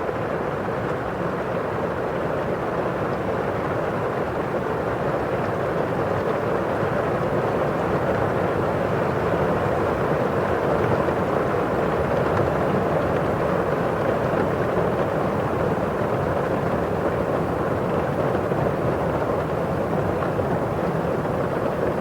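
Steady rain on a window pane with rain falling outside: a continuous even hiss that grows a little louder toward the middle.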